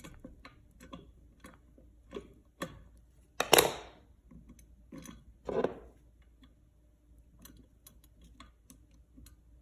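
Hand tool trimming and stripping the end of an electrical wire: small clicks and ticks of the wire stripper handled against the wire and outlet, with two louder noisy strokes about three and a half and five and a half seconds in.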